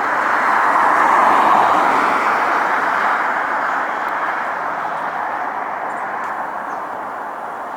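A vehicle passing by, a steady rush of road noise that is loudest about a second and a half in and then slowly fades away.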